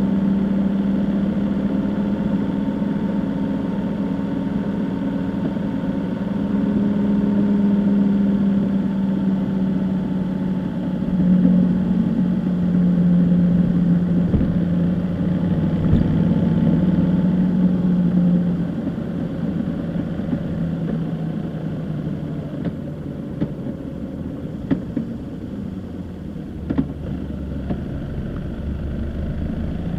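Vehicle engine running steadily on the move, its pitch drifting slowly up and down, with a few short knocks in the second half.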